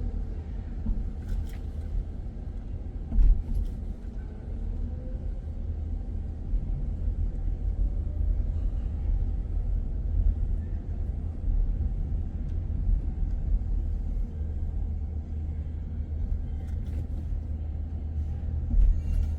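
Steady low rumble of a car on the move, engine and road noise, with a brief thump about 3 seconds in and another near the end.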